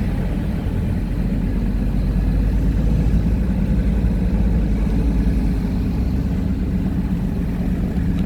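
A car driving at low speed: a steady low rumble of engine and tyres on the road.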